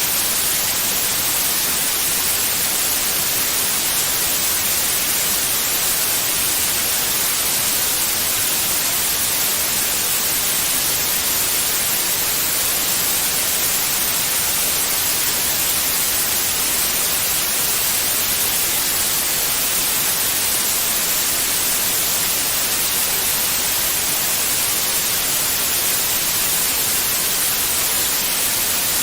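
Steady white noise: an even, unchanging hiss that is strongest in the treble, played continuously as a sleep sound for babies.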